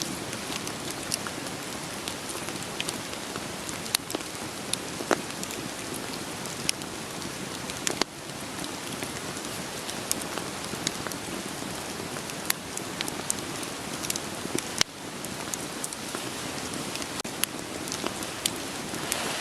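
Steady rain hiss with scattered sharp pops and crackles of burning wood.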